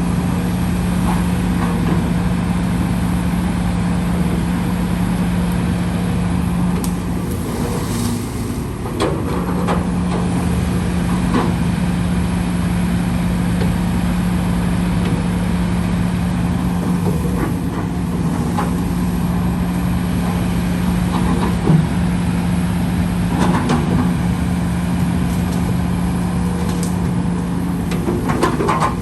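Heavy earthmoving machinery's diesel engine running steadily, with a brief drop in engine note about eight seconds in and occasional knocks and clanks of working machinery.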